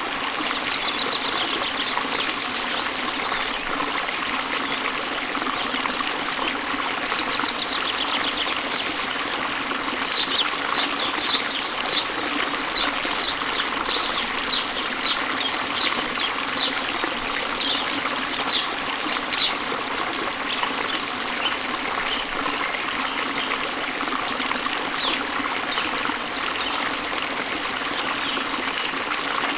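Steady rush of a waterfall, with birdsong over it: from about ten seconds in, a bird gives a run of short, sharp high notes, about two a second, for some ten seconds.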